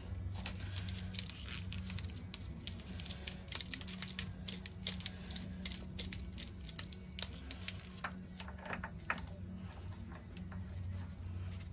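Light metal clinks and rattles of tools and engine parts being handled, with one sharper click about seven seconds in, over a steady low hum.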